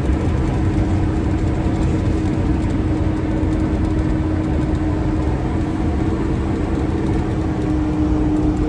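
Steady engine and road noise of a Winnebago motorhome driving at speed, heard from inside the cab: a constant low rumble with a steady drone.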